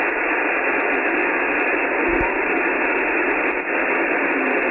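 Steady hiss of an Icom IC-9700 receiving on 70 cm SSB, squeezed into a narrow telephone-like band: open-channel band noise while the operator listens for a weak reply from the distant station.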